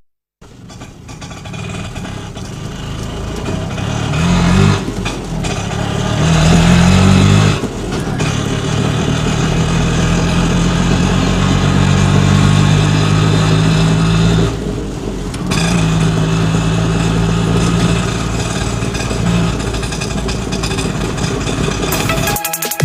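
An engine running, revving up twice in the first several seconds and then running at a steady pitch, with a brief drop near the middle.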